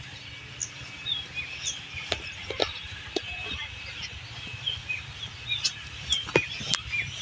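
Birds chirping in short scattered calls over a steady low background rumble, with a few sharp knocks.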